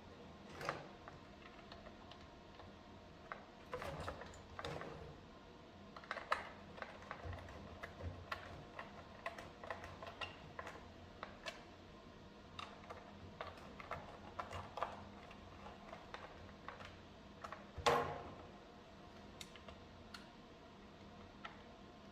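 Irregular small clicks and knocks of hard plastic vacuum-cleaner parts and tools being handled, with a louder knock about 18 seconds in.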